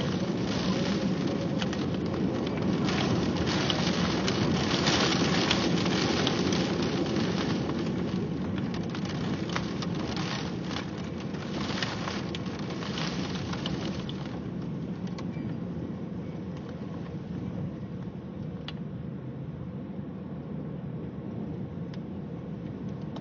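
Heavy thunderstorm rain pouring down, dense and hissing with brief surges, easing noticeably after about fourteen seconds.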